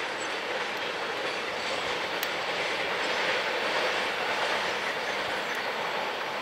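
Container freight train running along the line: a steady rolling rush of wagon wheels on the rails, with a few faint clicks.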